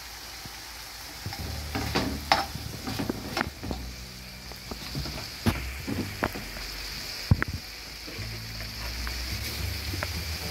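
Mutton liver (kaleji) frying in masala on a tawa: a steady sizzle, with a spatula scraping and knocking against the pan as the liver is stirred, one knock loudest about seven seconds in.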